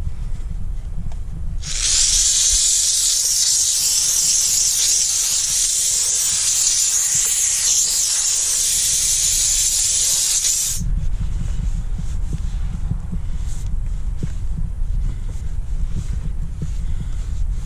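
Dupray Neat canister steam cleaner spraying steam: a loud hiss starts about two seconds in, runs for about nine seconds and cuts off abruptly. A low rumble is heard before and after it.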